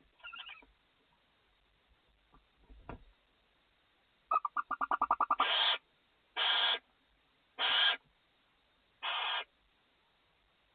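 Barn owls in the nest box: a fast run of about a dozen chittering pulses, then four hissing calls, each about half a second long, repeated every second or so.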